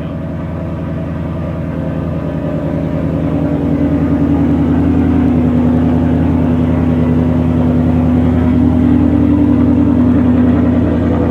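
Ford Mustang GT's 5.0 L V8 running at low rpm through an X-pipe with the mufflers deleted, a steady deep exhaust note that grows louder over the first few seconds and then holds.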